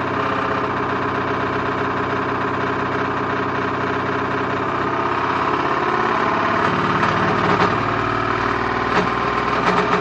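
Candy Grand O Vita GV149T3W washing machine running up to spin: a steady motor whine with several tones that shift and rise after about five seconds, joined by sharp knocks from about seven seconds in. The knocking goes with a failing drum spider, the third arm of which is breaking.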